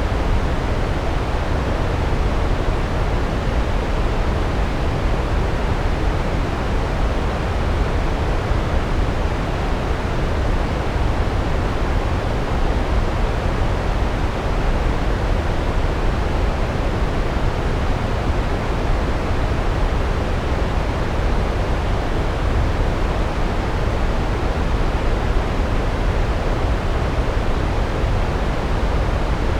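Large waterfall: a steady, unbroken rush of falling water, heaviest in the deep lows.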